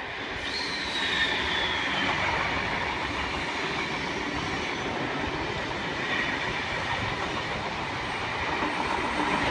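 An eight-car V-set double-deck electric intercity train running past the platform: a steady rush and rumble of wheels on rail that builds over the first second. A high whine about half a second in falls in pitch over the next second and a half.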